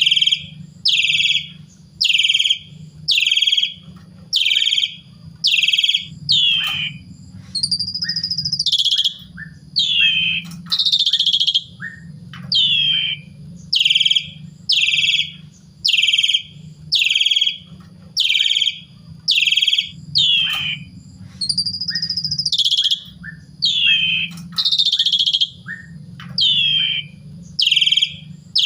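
Asian pied starling (jalak suren) calling in a long run of loud, falling notes repeated about once a second, broken a few times by longer whistles that rise and then fall.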